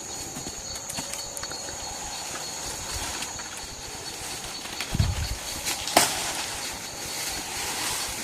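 Night rainforest ambience of steady, high-pitched insect calls, one of them pulsing rapidly. A low thump comes about five seconds in, and a sharp click about a second later.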